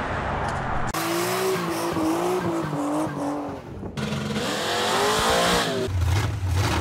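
Drag-racing car engines revving hard with tyre squeal, in short clips that cut off abruptly about a second in and again about four seconds in. Near the end a V8 engine runs close up with a low, uneven rumble.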